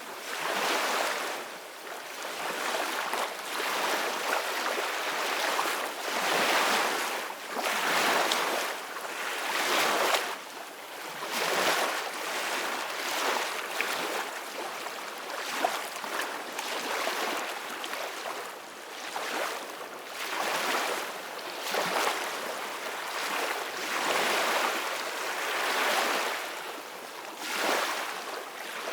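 Sea waves washing and breaking, a rushing hiss that swells and falls every couple of seconds.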